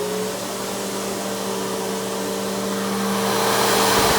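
Simplicity Symmetry Deluxe SYMDL.2 upright vacuum with its 12-amp single-stage motor, just switched on: it finishes spinning up to full speed at the start, then runs steadily with a whine over an airy rush, growing slightly louder near the end.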